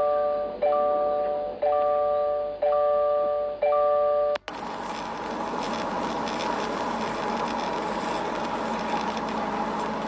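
An electronic chime dinging about once a second, each ding the same ringing chord that fades, until a sudden cut about four seconds in. After the cut comes a steady rushing noise with a faint hum, like road noise heard inside a moving car.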